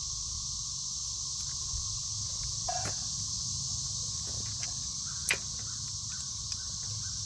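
Cicadas droning steadily in a high-pitched chorus, with one sharp click about five seconds in.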